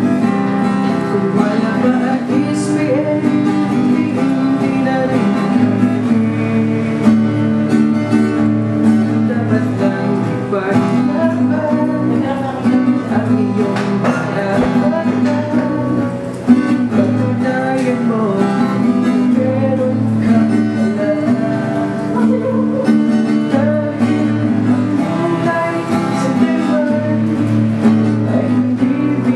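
Acoustic guitar playing a song, possibly with singing over it.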